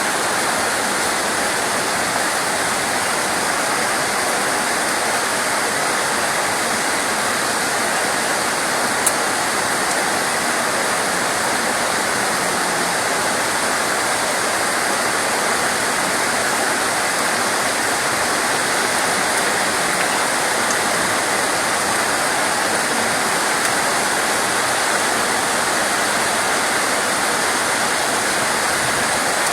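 Steady, dense rain: an even hiss of water with no change in strength, and one faint tick about nine seconds in.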